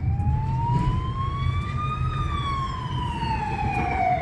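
Emergency vehicle siren in a slow wail: the pitch climbs for about two seconds, then falls for about two more, over the low rumble of the car.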